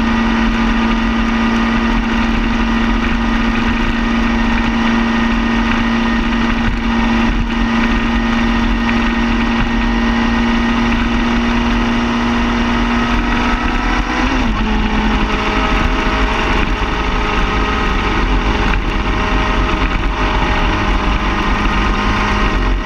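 Car engine running steadily with a constant hum. About fourteen seconds in the pitch dips slightly and settles at a new steady note.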